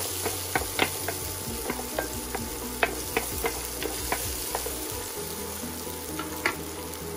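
Chopped onion and garlic sizzling in hot olive oil in a square pan, with a wooden spoon stirring and clicking irregularly against the pan bottom. The stirring stops near the end and the sizzle goes on.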